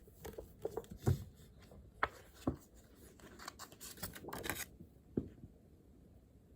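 Study materials being handled on a desk: a few sharp knocks and clicks, with a stretch of rustling about three to four and a half seconds in.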